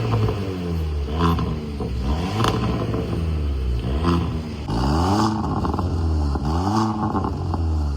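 VW Polo GT with an aftermarket valvetronic cat-back exhaust, revved in repeated quick throttle blips, about one a second, each rising and falling in pitch over a steady low exhaust rumble.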